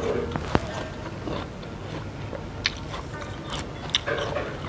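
Close-up mouth sounds of chewing crisp water apple (jambu air), with a few short, sharp crunching clicks scattered through.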